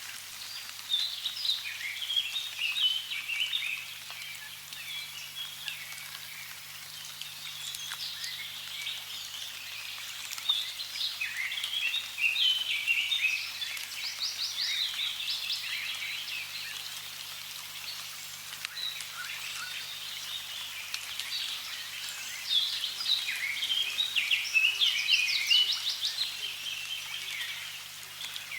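Small birds chirping and twittering in clusters of quick high calls, busiest a second or so in, around the middle and a few seconds before the end, over a steady hiss of running water.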